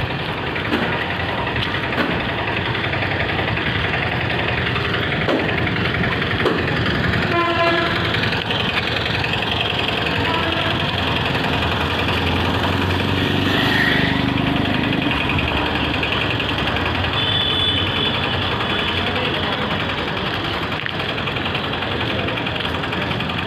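Steady rumble of a train running past a railway level crossing, with a short horn blast about a third of the way through.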